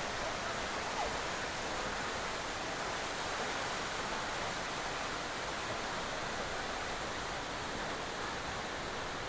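Steady rushing of fast-flowing river water, an even noise with no rhythm or tone in it.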